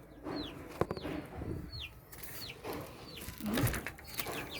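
Young chicks peeping: short, high, falling chirps repeated every half second or so, with some brief rustling.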